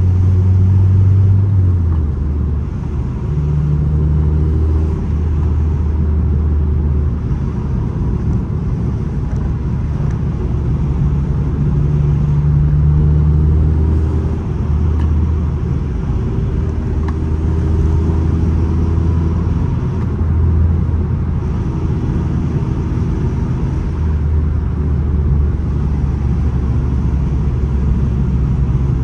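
9th-generation Honda Civic Si's 2.4-litre K24 four-cylinder running through an aftermarket downpipe and exhaust. It gives a loud, low drone whose pitch steps up and down every few seconds as the revs change.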